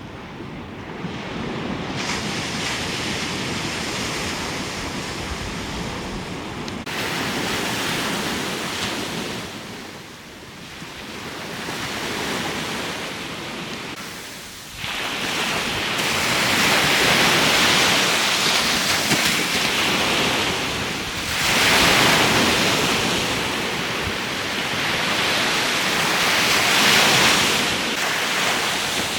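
Sea surf and wind at the shore: a steady noise of waves washing in, swelling and fading every few seconds and growing louder about halfway through, with wind blowing.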